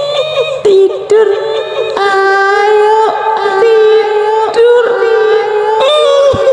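High-pitched female voice doing the wailing, sung cry of a kuntilanak ghost: a few short broken notes, then long held, wavering notes.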